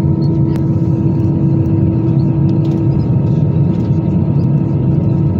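Steady cabin noise of an Airbus A320-214 with its CFM56 engines running, engine drone and airflow with a few steady hum tones.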